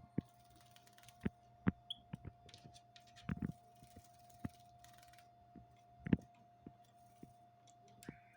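Scattered light clicks and taps from a small caged siskin hopping and pecking around its cage and drinking bowl, with a short run of taps about three seconds in and a stronger knock about six seconds in. A steady faint hum runs underneath.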